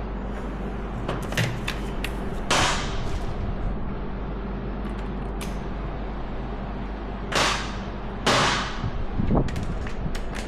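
Hand work on a quad's wiring: scattered sharp clicks and three short rasping zips, each about half a second long, over a steady low electrical hum.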